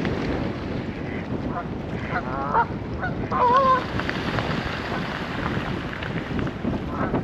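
Geese honking, a few short calls and then a louder one about three and a half seconds in, over steady wind buffeting the microphone.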